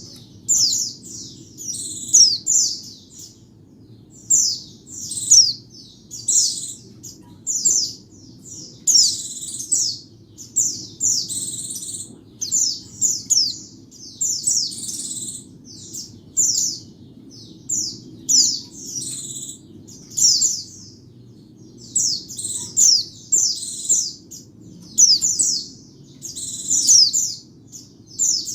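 White-eye (pleci, Zosterops) singing: short, high, rapid twittering phrases, about one a second, with brief gaps. A faint low hum runs underneath.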